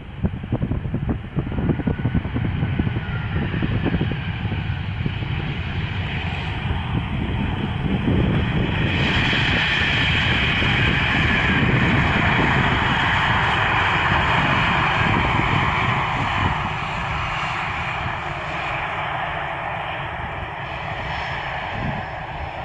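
Airbus A320 jet engines on a landing pass: a steady rushing jet noise that swells about nine seconds in, holds for several seconds, then slowly eases, over low rumbling wind buffeting on the microphone.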